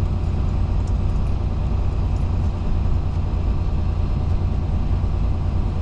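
Steady low rumble of a flatbed semi truck on the road, heard from inside the cab: engine and road noise with no break.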